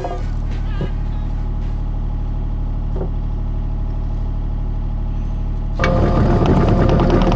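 Skid steer engine running steadily, then revving up about six seconds in as the machine is put to work.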